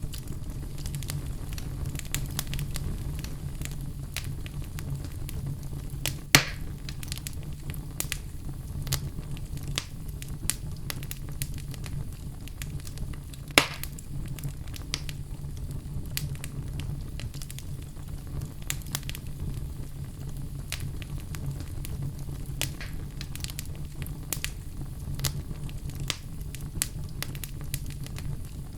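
Wood fire burning in a fireplace: a steady low rumble of flames with frequent small crackles and pops, and two sharper, louder pops about six and fourteen seconds in.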